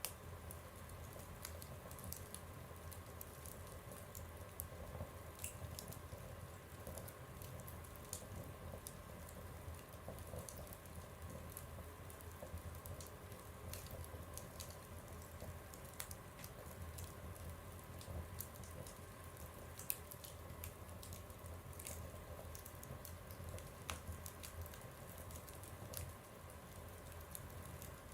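Wood fire crackling in a stove or fireplace: irregular small pops and ticks over a low steady rumble, with one sharper pop about twenty seconds in.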